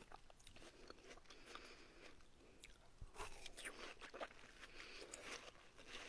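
Quiet close-miked eating of watermelon: irregular wet, crisp crunches as the juicy flesh is bitten and chewed.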